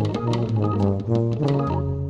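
Instrumental jazz: sustained organ-like keyboard chords over a low bass line, with drum-kit cymbal and drum hits.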